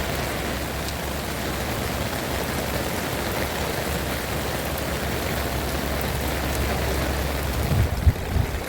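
Heavy rain falling steadily, an even hiss with a low rumble underneath. A few dull knocks come near the end.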